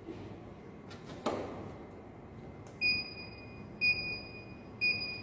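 Two sharp clicks, then a treadmill's electronic console beeping: a high steady beep repeating about once a second as the repaired treadmill powers up.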